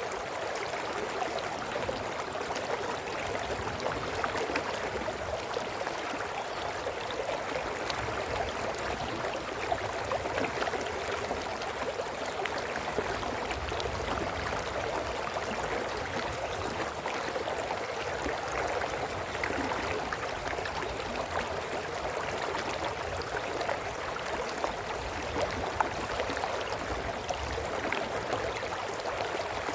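A small brook babbling and gurgling over stones, steady throughout.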